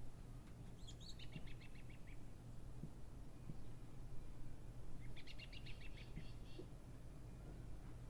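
A small bird calling twice, each time a quick chattering run of about ten short high notes, over a steady low background rumble.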